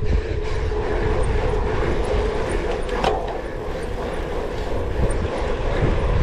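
Cyclocross bike being ridden hard over rough ground, with wind rumbling on the microphone, a steady hum and the bike rattling.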